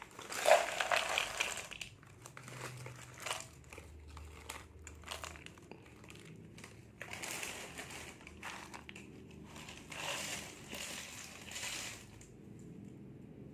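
Plastic snack packets crinkling and rustling as they are handled and opened, in several bouts, the loudest about a second in.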